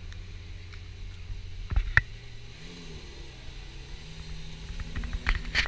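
Lamborghini Aventador SVJ's 6.5-litre V12 idling with a steady low hum, its pitch rising slightly a little past halfway. Two sharp clicks come close together about two seconds in, and a few more come near the end.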